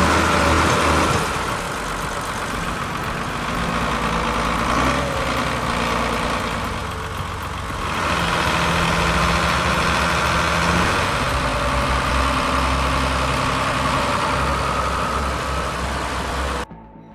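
Heavy vehicle engine running steadily. It eases off about a second and a half in and picks up again around eight seconds, then cuts off sharply just before the end.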